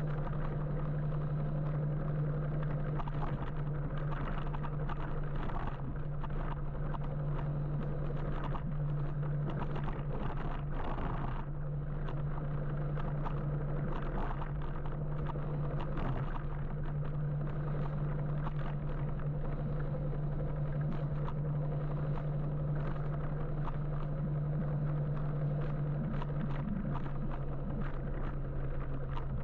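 Riding noise on an electric motorbike in city traffic: a steady low hum over constant road and wind noise, with a few short ticks.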